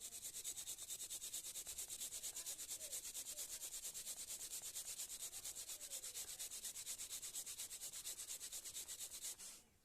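Rapid, even back-and-forth rubbing on the contact points of a power on/off switch, about eight strokes a second, scouring off the carbon that stops the switch conducting; it stops shortly before the end.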